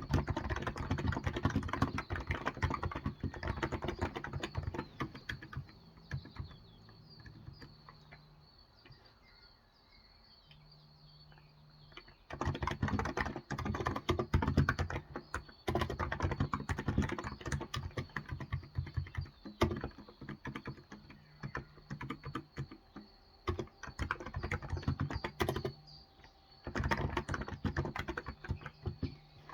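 Typing on a Cox Endeavor electrostatic capacitive (contactless) tenkeyless keyboard with 35 g switches: rapid runs of key presses. The typing breaks off for a few seconds about a third of the way in, then picks up again and continues with a brief pause near the end.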